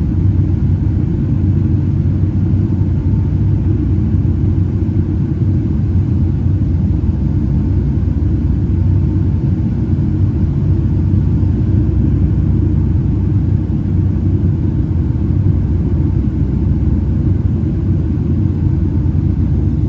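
Boeing 757-200 cabin noise in flight after takeoff: a steady, loud low rumble of engines and airflow heard from inside the cabin, with a faint steady tone above it.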